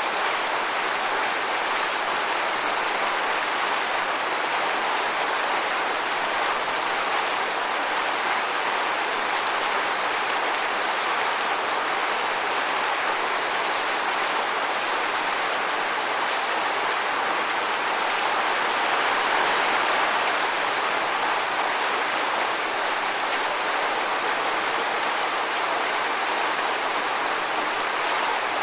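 Waterfall: water pouring and splashing in a steady, even rush, swelling slightly a little over halfway through.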